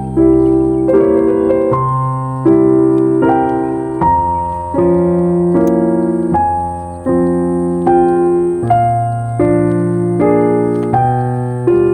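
Calm piano music: soft chords struck about once every second, each one ringing and fading before the next.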